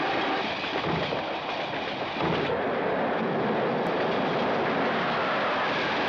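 Train running at speed: a steady rushing rumble, louder from about two seconds in.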